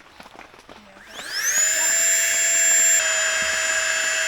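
Small electric air pump switching on about a second in, its whine rising quickly to speed and then running steadily while inflating a sleeping pad.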